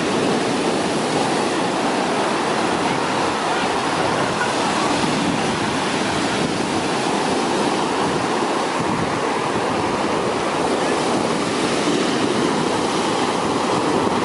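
Large sea waves breaking on a beach, a continuous, steady wash of surf with no separate crashes standing out.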